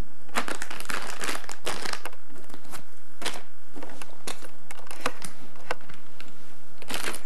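Irregular crinkling and rustling, as of something being crumpled and handled, thickest in the first couple of seconds and again near the end.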